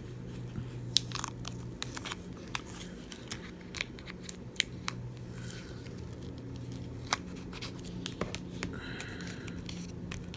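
Small, sharp clicks and taps, scattered irregularly, of tools and fingers handling an iPhone 7 Plus as its screen is being pried open, over a steady low hum.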